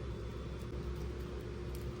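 Steady low background hum with a faint constant tone, with a few faint small clicks.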